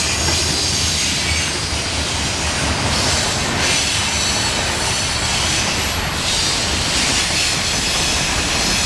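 Norfolk Southern freight cars rolling past at close range: a steady rumble of wheels on rail, with the wheels squealing in thin high tones.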